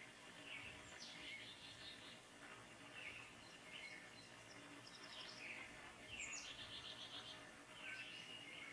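Faint songbirds calling: several birds overlapping in short chirps and down-slurred whistles, with a quick trill of rapid notes in the middle, over a low hiss.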